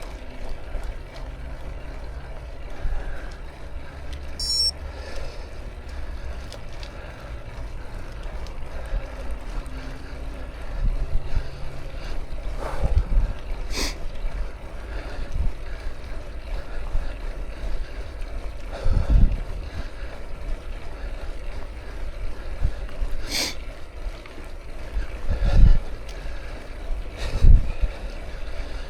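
Bicycle riding along a road: tyres rolling and wind buffeting the microphone make a steady low rumble, with occasional sharp knocks and thumps from bumps and the bike's frame. A low hum runs under it for about the first twelve seconds.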